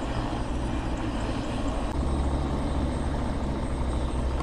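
A vehicle engine running steadily with a low hum, growing louder about two seconds in.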